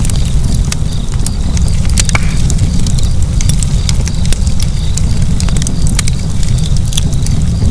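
A burning fire: frequent sharp crackles and pops at irregular intervals over a steady low rumble of flames.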